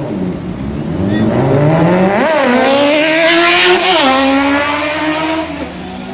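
Sport motorcycle accelerating hard past, its engine pitch climbing and briefly dropping at gear changes about two and four seconds in. It is loudest just after the middle as it goes by, then fades.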